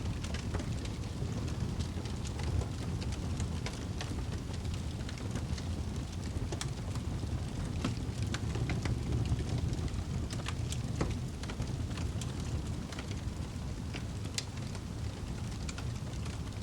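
Fire burning in a fireplace: a steady low rumble of the flames with scattered sharp crackles and pops at irregular moments throughout.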